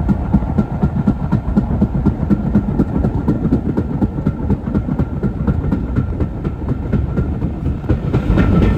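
A train running past on the rails: a steady low rumble with an even run of wheel clicks, several a second. It grows louder and brighter near the end.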